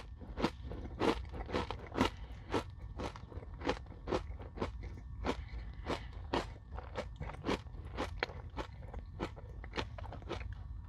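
Steady chewing of a crunchy Nature Valley granola bar with whipped cream, picked up close to the microphone: sharp crunches about twice a second.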